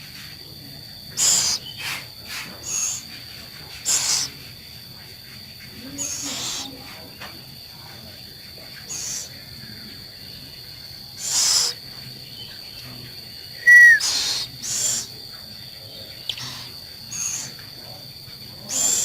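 A scops owl gives short, raspy, hissing calls, each under half a second, repeated irregularly every second or two.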